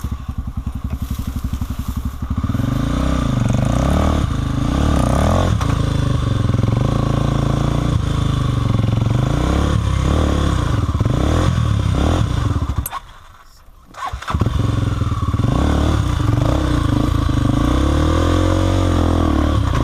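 Dirt bike engine working over rocky trail: it idles for about two seconds, then is revved up and down in uneven bursts as the bike is worked over a rock it is hung up on. About two-thirds of the way through the engine sound cuts out for about a second, then it runs again.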